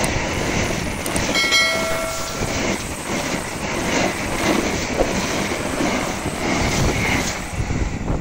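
Argo Semeru passenger train passing close by: a steady rumble and rattle of coach wheels on the rails. A brief steady tone sounds over it about a second and a half in.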